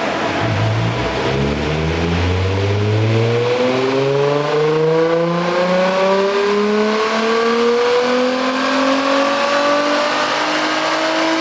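Nissan Z33's 3.5-litre V6 breathing through a Fujitsubo titanium exhaust with a modified catalyst, revving up in one long, steady climb from about a second in, as in a chassis-dyno power run.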